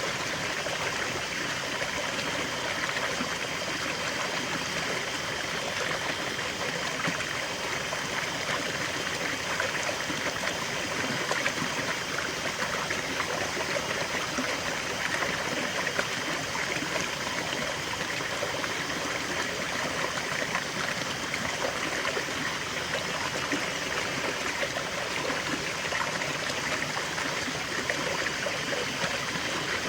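River water flowing steadily over stones, a constant rushing with fine splashing and trickling detail.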